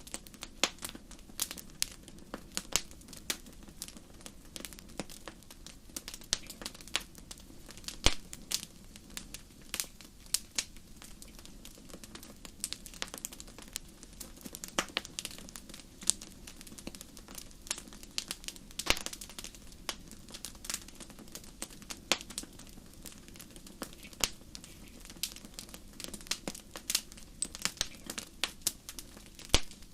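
Wood fire crackling in a fireplace: irregular sharp pops and snaps over a low steady hiss of burning, with one louder pop about eight seconds in.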